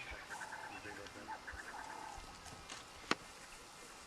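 Faint, rapid series of short chirping animal calls, with a single sharp click about three seconds in.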